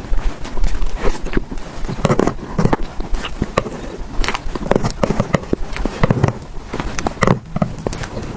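Close-miked eating sounds of someone eating creamy cake: wet chewing and lip smacks in quick, irregular clicks.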